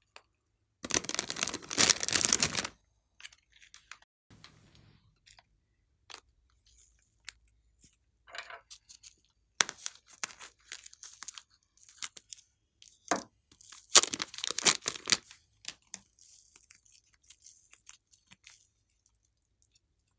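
Slime being stretched and squeezed by hand, crackling and popping stickily in short irregular bursts. The loudest burst comes about a second in, with more near the middle and toward the end and scattered small pops between.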